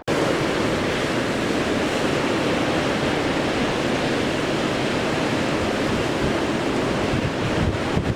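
Strong blizzard wind blowing hard and steadily, buffeting the microphone, with heavier low gusts near the end. It starts suddenly.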